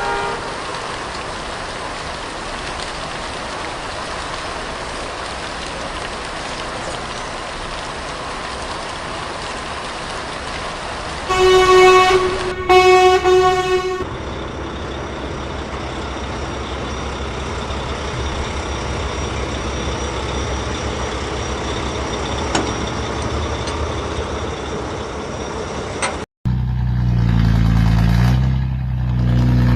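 Vehicle engine running with a steady hum, broken by two loud horn honks about eleven to fourteen seconds in. Near the end, after a brief cut, a lower and louder engine sound takes over.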